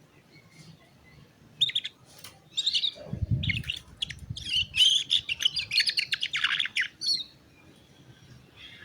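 Young canary singing a lure song: quick chirps and fast trills that begin about a second and a half in and stop about seven seconds in. A low thump is heard about three seconds in.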